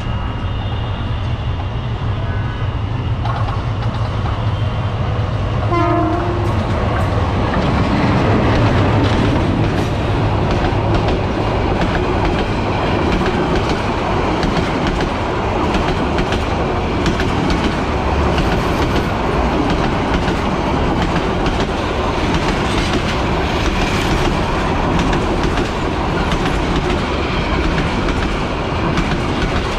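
Bangladesh Railway passenger train passing close by. A diesel locomotive rumbles in and gives one short horn blast about six seconds in. Then comes the steady rush and clickety-clack of the coaches running past on the rails.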